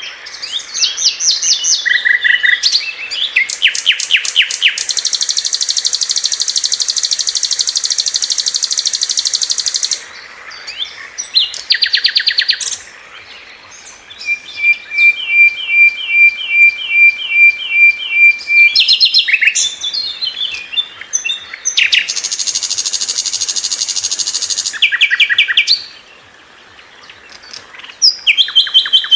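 Sikatan londo flycatcher singing loudly in full song: quick chattering trills, long buzzy trills, and a run of evenly repeated notes, about three a second, near the middle.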